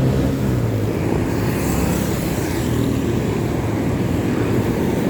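Steady road traffic noise with engine hum, a passing engine's tone fading about a second in, and wind rumbling on the microphone.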